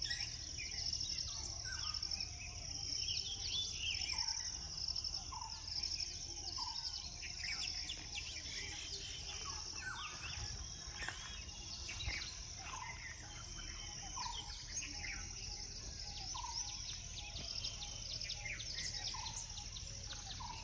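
Many small birds chirping and calling at once in an early-morning chorus, short calls overlapping throughout, over a steady high, fast-pulsing insect trill.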